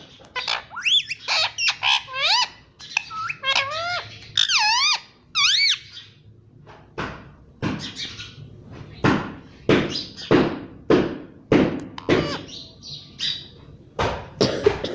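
Parrot vocalising: a run of wavering whistles that swoop up and down in pitch, then, about six seconds in, a string of short, harsh squawking calls at about one or two a second.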